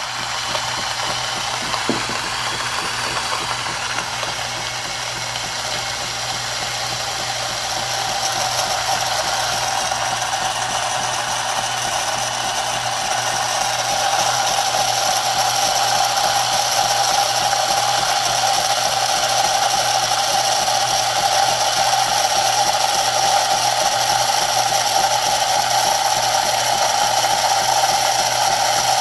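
Philips 3200 LatteGo super-automatic espresso machine running through a drink cycle: a loud, steady mechanical noise that grows a little louder partway through.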